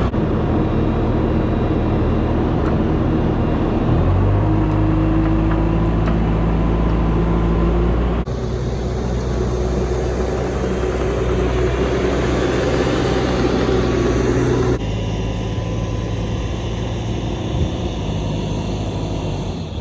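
Engines running steadily in three abruptly cut segments; in the first the pitch steps up about four seconds in, as the engine revs up under throttle.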